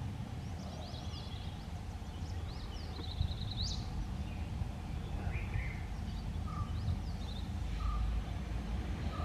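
Birds calling: scattered short high chirps and a quick run of notes a few seconds in, over a steady low rumble.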